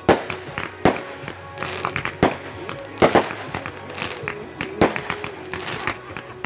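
Fireworks exploding: a string of sharp bangs, about seven loud reports at irregular intervals with smaller pops between them.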